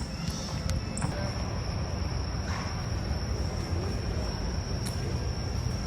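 Outdoor ambience: a steady high-pitched insect trill over a low rumble, with a few faint clicks.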